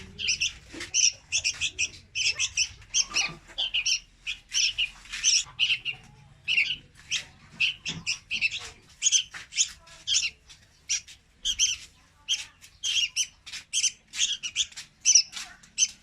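Young red-whiskered bulbul calling: a quick, unbroken run of short, high chirps, several a second.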